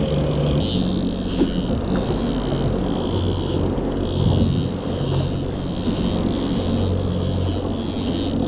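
A boat's motor running steadily under way, its pitch shifting a little under a second in, over a constant rush of wind and water.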